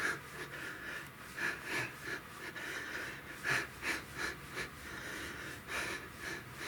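A man breathing hard and fast in repeated gusts, winded from pedalling an exercise bike mid-workout.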